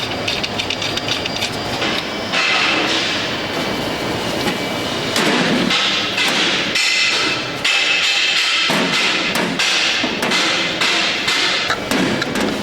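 Repeated hammer strikes and metal clatter in a fireplace workshop, irregular and close together, with stretches of rushing noise between the strikes.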